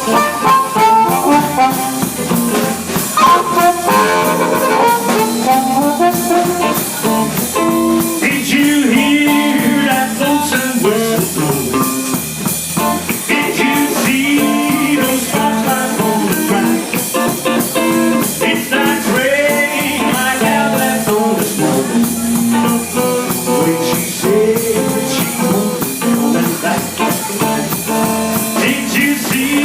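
Live band playing a blues-style song.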